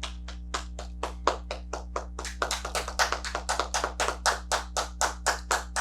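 A small audience clapping at an even pace of about four claps a second. It starts thin and grows fuller as more hands join about two seconds in.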